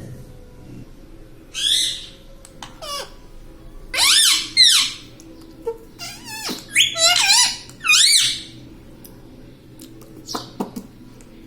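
Pet parrot giving several short bursts of high, warbling squawks and chatter, with the loudest run in the middle.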